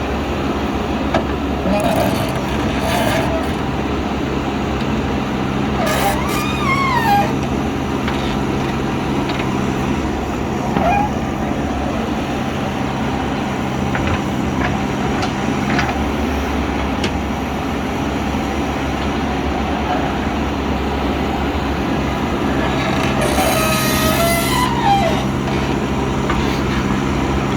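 JCB backhoe loader's diesel engine running steadily while it works, its note changing about halfway through, with a few short high squeals that drop in pitch. A brief hiss comes near the end.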